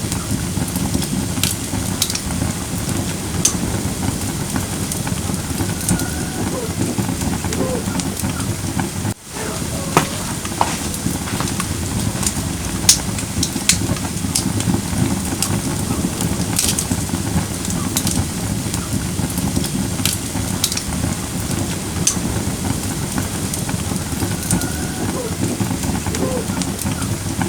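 Firewood burning in a campfire brazier: a steady hiss with irregular sharp crackles and pops. The sound briefly drops out about nine seconds in.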